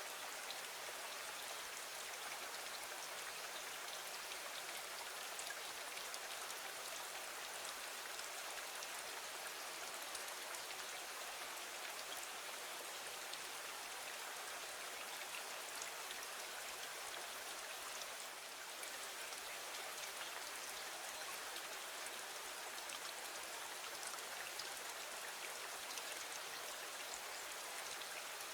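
Steady rain on a window: a dense, even hiss scattered with many small drop ticks.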